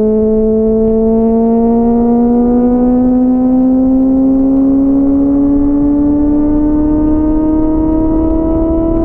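Inline-four sport motorcycle engine pulling at freeway speed. Its pitch climbs slowly and evenly with no break, as the bike gradually accelerates without a gear change.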